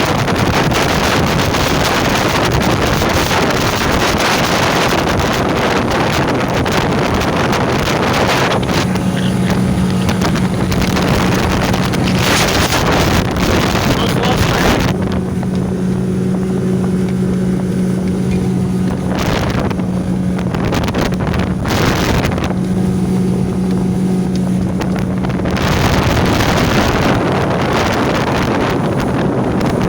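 A boat's 115 hp outboard motor running at a steady cruising speed with a constant drone. Heavy wind buffets the microphone and now and then drowns out the engine; the drone comes through clearly each time the gusts ease.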